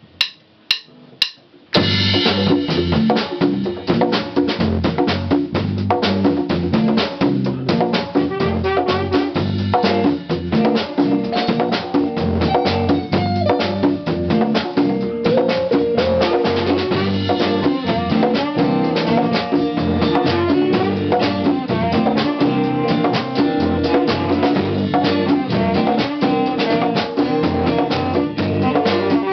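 A few sharp clicks count in, then a band starts a swing tune with a drum kit keeping a steady beat under pitched instruments.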